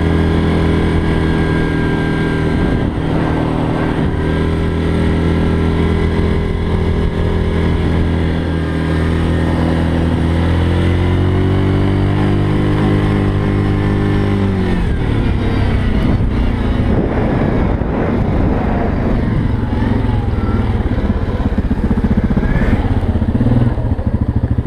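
ATV engine running steadily under way. About halfway through, the engine note climbs slightly, then falls away and turns rougher and less even as the machine slows or changes speed.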